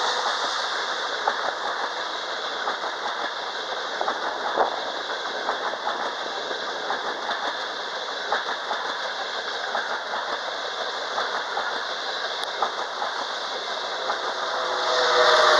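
Frecciarossa ETR500 electric high-speed train rolling past, a steady rumble with wheels clicking over rail joints as the coaches go by. Near the end it grows louder with a humming whine as a power car passes.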